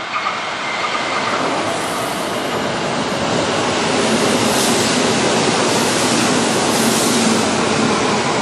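Kintetsu 1026-series (1020-series) VVVF inverter commuter train running through the station at speed without stopping. Steady rushing wheel-on-rail noise builds as the cars sweep past and is loudest in the second half, with a couple of sharp clacks right at the start.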